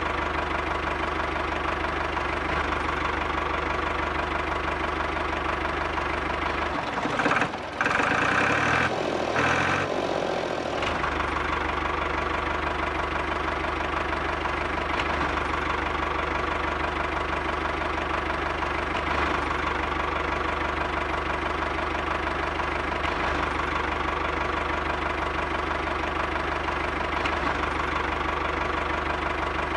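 Single-cylinder stationary diesel engine running steadily at idle, with a brief change in the sound about a quarter of the way through.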